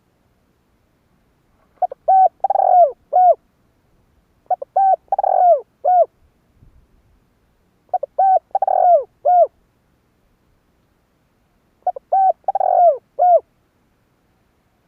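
Spotted dove cooing: four phrases a few seconds apart, each a quick run of several notes ending in a falling note.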